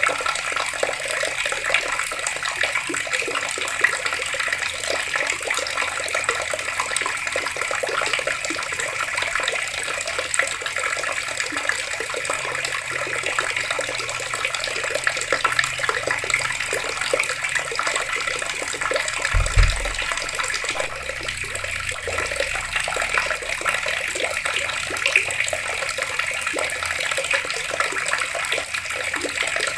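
Water running steadily from taps and splashing. A brief low thump comes about two-thirds of the way through.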